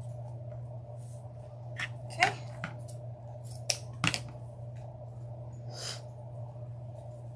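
A few scattered clicks and short rustles from wreath-making supplies being handled, over a steady low hum.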